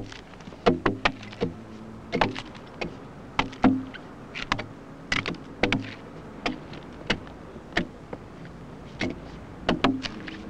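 Axe blows chopping into a fresh oak log, hewing its sides square down to marked lines. The blows are irregular, about one or two a second and sometimes in quick pairs, each a sharp knock, some with a brief ring.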